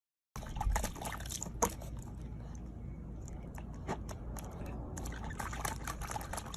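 Water splashing and dripping in many small irregular splashes over a steady low noise, starting suddenly about a third of a second in.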